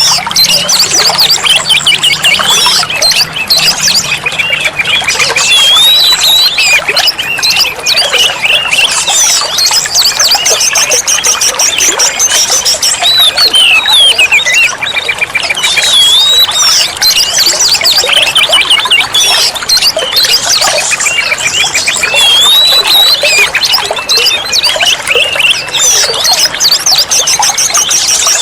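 Oriental magpie-robin (kacer) singing without a break: a loud, rapid run of varied whistles, trills and chattering notes.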